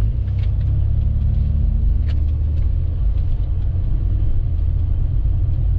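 Strong wind of about 50 mph buffeting a Toyota Land Cruiser, heard from inside the cabin as a loud, deep, steady rumble.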